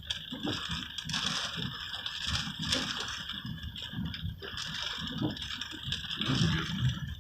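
Rain pattering on a truck's roof and windshield, heard from inside the cab: a steady hiss with many small irregular taps and low rumbles.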